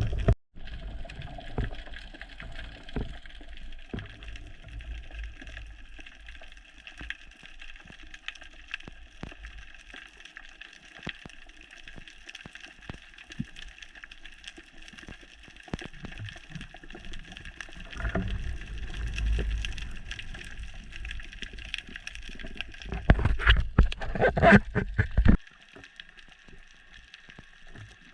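Underwater ambience picked up by a diving camera: a steady faint hum of several held tones with scattered sharp crackling clicks. Louder low rumbling water noise comes in twice, about two-thirds of the way through and again near the end, where it cuts off suddenly.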